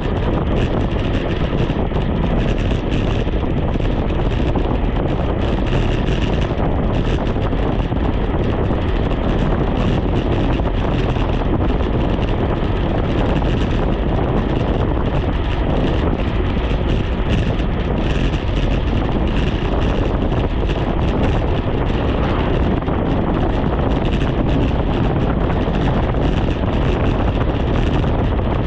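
Wind buffeting the microphone of a cyclist riding downhill at speed: a loud, steady rush of noise that never lets up.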